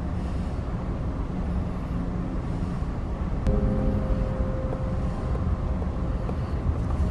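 A moving passenger train gives a steady low rumble. About halfway in, a held chord of steady tones joins it.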